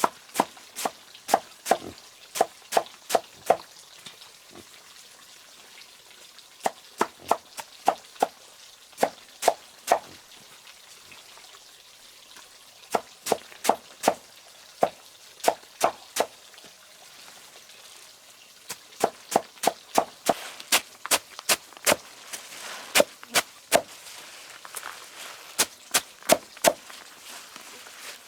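Repeated sharp knocks in runs of several, about three a second, with short pauses between the runs.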